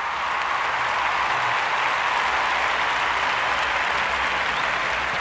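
Steady applause from a crowd.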